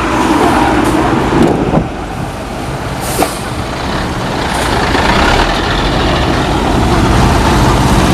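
Heavy truck's diesel engine running loud and steady, growing a little louder, with a short hiss of air brakes about three seconds in.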